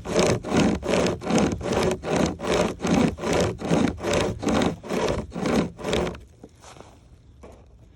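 SOSGEAR 36-inch hand chain saw pulled back and forth through a dead oak log, its chain teeth rasping through the wood on every stroke, at about three strokes a second. The sawing stops about six seconds in.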